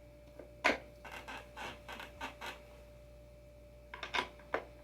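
Hard parts being handled: one sharp knock, then about six short scraping strokes, then a few more knocks near the end.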